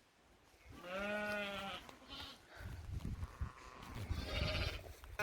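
Livestock bleating: one long, arching bleat about a second in, with a second bleat starting near the end, over low rumbling noise.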